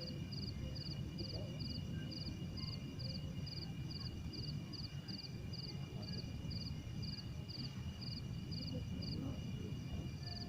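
Strong wind buffeting the microphone with a low, uneven rumble, while an insect chirps in a steady rhythm of about two to three chirps a second, each a quick triple pulse, over a thin steady high buzz of other insects.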